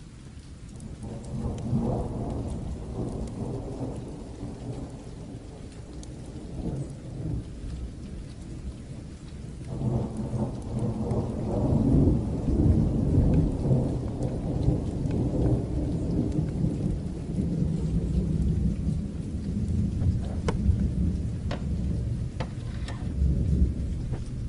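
Two rolls of distant thunder over steady rain: a low rumble swells about a second in and dies away, then a longer, louder roll builds from about ten seconds in and rumbles on to the end. A few sharp crackles come near the end.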